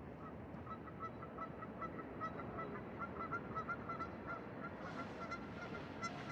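A flock of geese honking, a rapid run of short calls several a second, over a steady background hiss.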